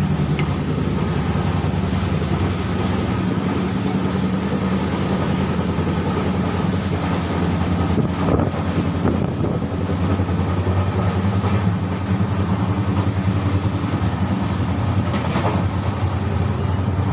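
Running noise inside a moving express passenger train coach: a steady loud rumble with a low hum, broken by a couple of brief knocks.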